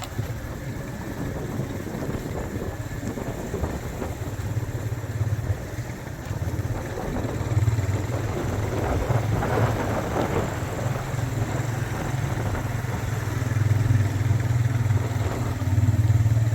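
Vehicle engine running with road noise: a steady low drone, rougher and a little louder about halfway through.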